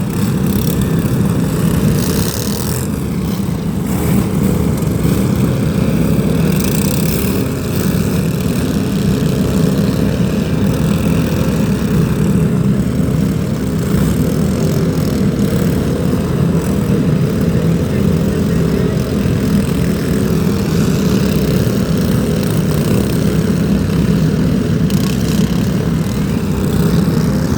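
Racing vehicle engines running in a loud, steady drone.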